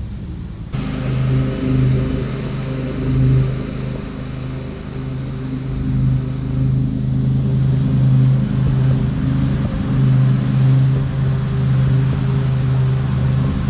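An engine running steadily, a low hum whose level swells and eases a little, starting abruptly just under a second in.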